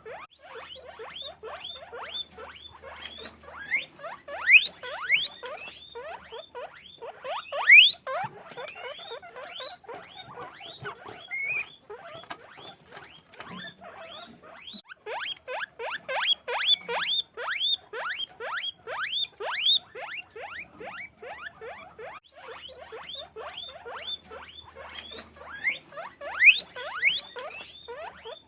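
Guinea pigs squeaking: a dense, rapid run of short falling squeaks, several a second, with a few louder shrill squeals standing out.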